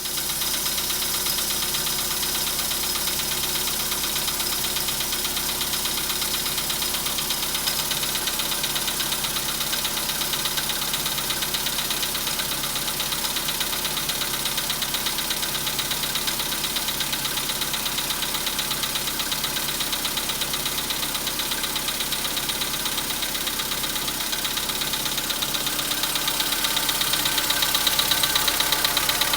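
Volkswagen Polo Sedan's 1.6-litre CFNB four-cylinder petrol engine idling cold, with a steady, rapid knock running through it. This is the engine knocking while cold, which lasts until it warms up.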